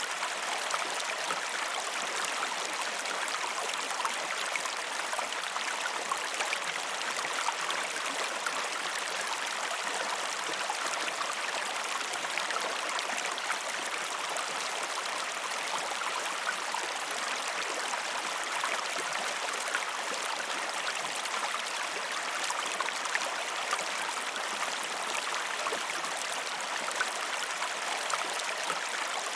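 Flowing river water rushing and splashing steadily over rocks, a continuous even wash of sound with fine splashes.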